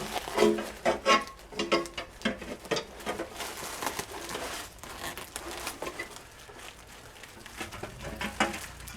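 A run of irregular clicks, knocks and light scrapes as a new glass pane is handled and dry-fitted into a metal door-window frame, some knocks ringing briefly. The knocks are densest in the first couple of seconds and again near the end.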